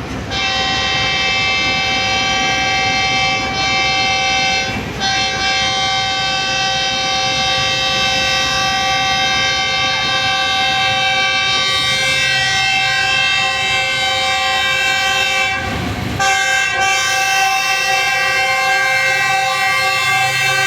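Locomotive air horn sounding in long, steady blasts, broken only by brief gaps about five seconds in and about sixteen seconds in.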